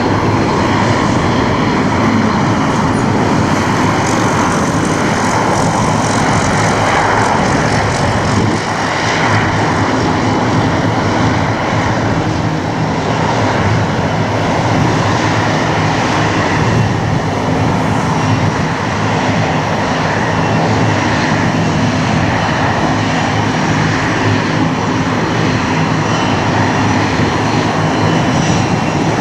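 Boeing 787-8 Dreamliner's twin turbofan engines at takeoff thrust: a loud, steady jet engine noise.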